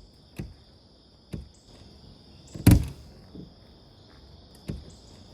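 Insects chirring steadily in a high, even drone, with four dull knocks or thumps; the loudest comes about halfway through.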